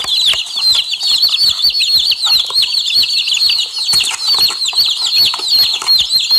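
A group of domestic chicks peeping nonstop: many quick, high, falling cheeps from several birds overlapping each other.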